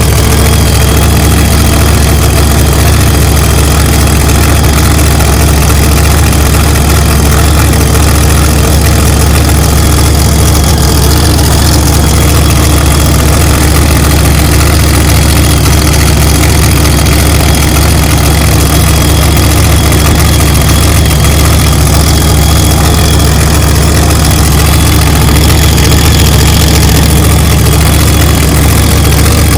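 Car engine idling steadily, very loud and close, just after being started, with strong deep rumble; the sound is so loud it stays pinned near full scale.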